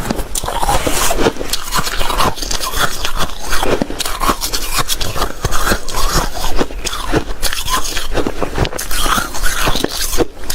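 Snowy shaved ice being bitten and chewed close to the microphone: a dense, unbroken run of crisp crunches.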